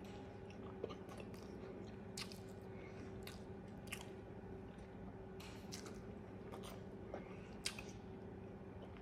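A person chewing food close to the microphone, with short clicking mouth smacks at uneven intervals.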